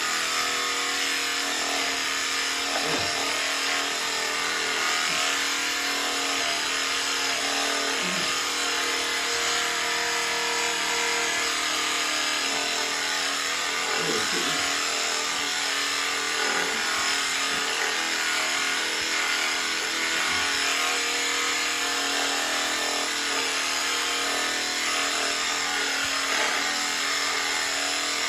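Electric sheep-shearing clippers running steadily, a constant motorised buzz.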